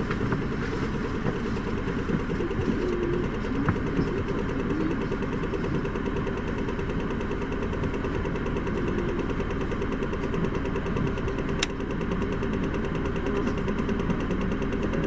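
Isuzu Erga city bus's diesel engine idling steadily, with one sharp click about two-thirds of the way through.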